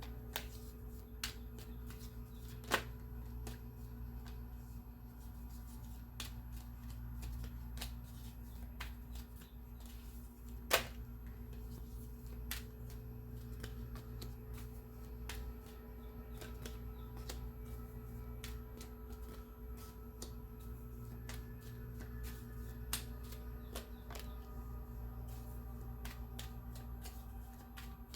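Tarot cards being shuffled and handled, a run of scattered sharp clicks and flicks with two louder snaps about three and eleven seconds in, over a steady low hum.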